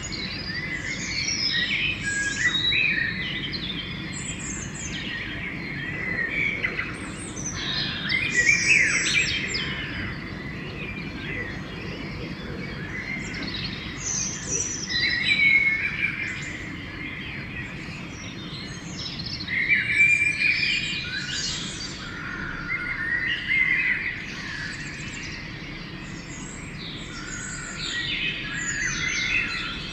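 Pre-dawn songbird chorus: several birds singing in overlapping, varied phrases that come every few seconds, over a steady low background rumble.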